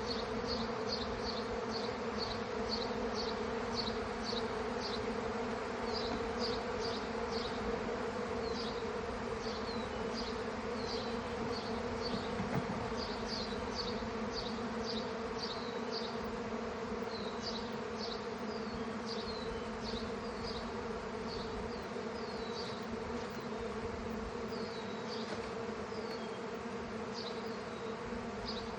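Honey bee swarm buzzing, a steady low hum of many bees in the air around the hive box after being shaken in. A short high chirp repeats a few times a second over it.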